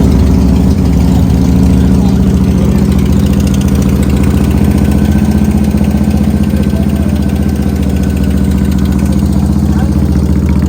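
A motorcycle engine idling steadily, its pitch unchanged throughout.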